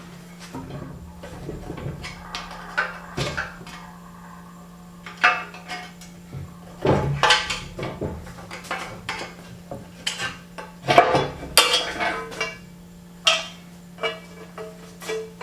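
Metal band saw parts and hand tools clinking and knocking as they are handled and set down during disassembly, in irregular clusters over a steady low hum.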